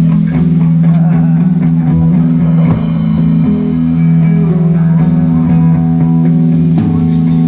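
Live rock band playing: electric guitar and bass holding sustained chords that change now and then, with a few drum hits near the end.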